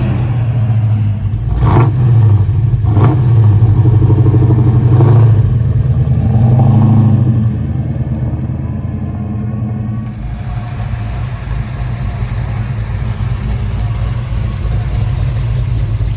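1970 Chevelle's engine, in its break-in period, running under throttle, louder for the first half. About halfway through it settles to a steadier, lower running sound. Two sharp knocks come at about two and three seconds in.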